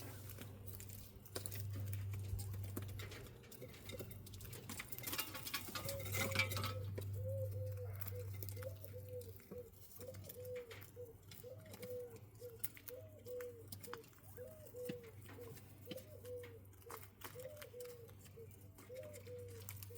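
Quail calling with a run of short, soft, low notes about twice a second, over a light patter of scratching and pecking. A brief burst of rustling comes about five seconds in, just before the calls start.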